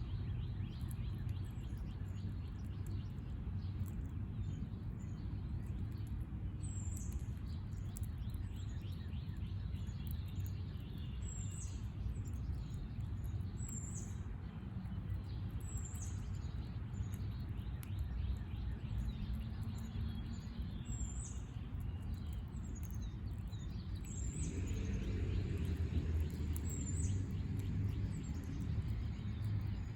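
A backyard bird repeating a short, high chirp every two to three seconds, over a steady low outdoor rumble that swells for a few seconds past the middle.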